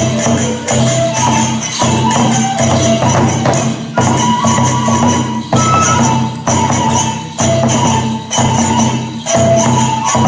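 Kagura accompaniment: a bamboo flute plays a melody of short held notes over regular taiko drum beats and jangling hand-cymbal clashes.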